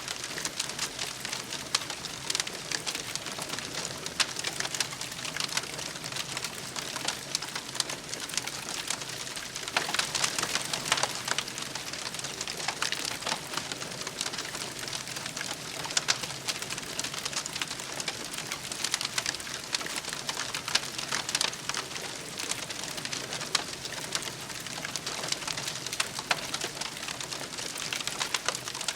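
Wood campfire crackling steadily, with dense sharp pops and snaps over a soft hiss.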